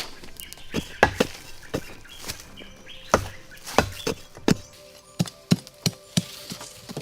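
A hand tool striking wood in an irregular series of sharp knocks, about a dozen.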